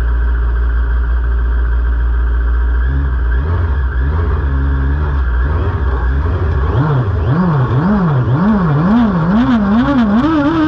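The Volkswagen Beetle autocross car's Suzuki Hayabusa inline-four motorcycle engine idles with the car standing still. It is then revved in quick blips, about two a second, each climbing higher, and at the very end it is held steady at high revs.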